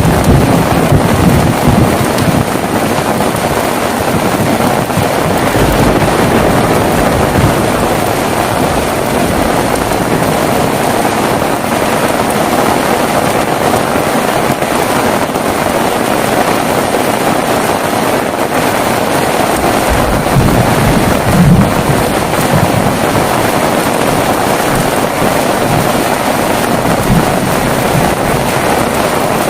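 Heavy rain falling steadily, with low rumbles of thunder in the first couple of seconds and again about twenty seconds in.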